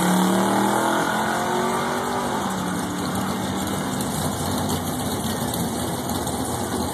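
A car's engine at full throttle making a drag-strip pass. Its pitch drops at a gear change a little over two seconds in, then the sound fades as the car pulls away down the track.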